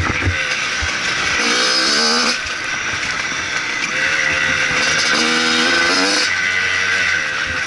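Motocross bike engine accelerating and backing off: its pitch climbs for about a second, drops sharply just past two seconds in, climbs again from about four seconds and drops again near six seconds, with a rush of wind throughout. A few low thumps come in the first second.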